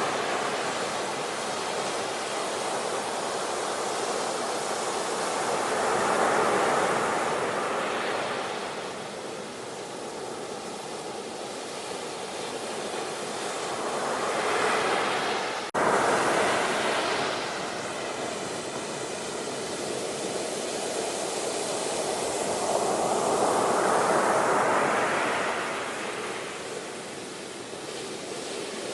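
Ocean waves breaking and washing ashore, the surf swelling and fading about every nine seconds. An abrupt cut a little past halfway.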